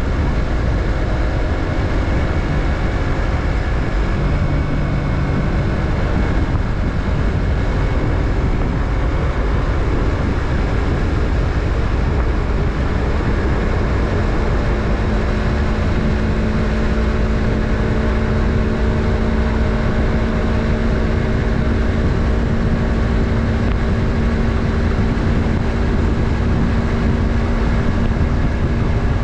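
Yamaha MT-03's parallel-twin engine running under way, mixed with road and wind noise. The engine settles at a steady speed for the second half.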